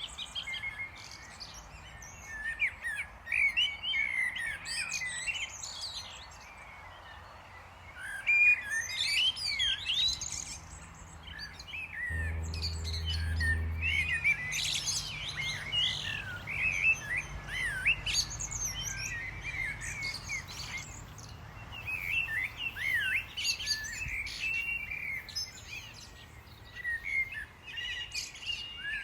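Small birds chirping and twittering in quick clusters, with short lulls between them. A low hum comes in briefly about twelve seconds in.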